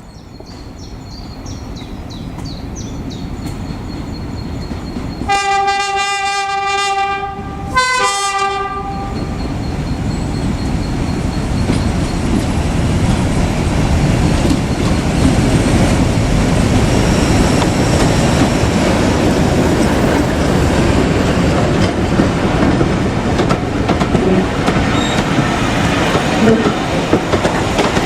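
A train sounds two horn blasts about five seconds in, a longer note and then a short one at a different pitch. It then passes close by, its rumble and wheel clatter building and holding loud.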